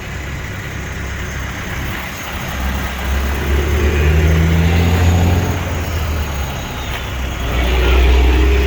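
A large vehicle engine running, a steady low hum that grows louder twice, as if it is worked harder for a few seconds each time.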